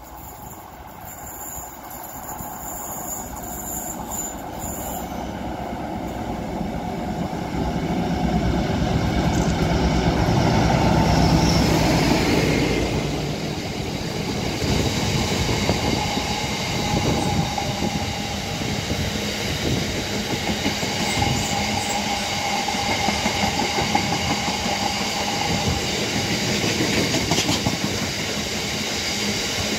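Class 60 diesel-electric locomotive 60029 thrashing as it approaches under power and passes at speed, growing louder to a peak about eleven seconds in. A long rake of box wagons then rolls past with a steady rumble and rhythmic wheel clatter.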